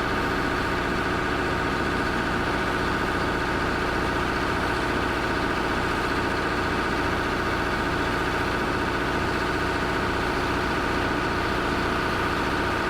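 Heavy vehicle engine idling steadily, a constant low hum with an even rumble.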